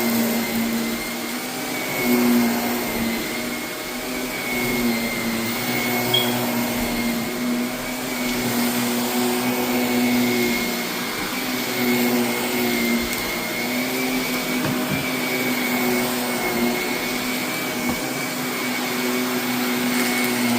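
Vacuum cleaner running steadily on carpet with a constant hum and a high whine, pulling up a heavy load of loose dust and renovation debris with a gritty crunch.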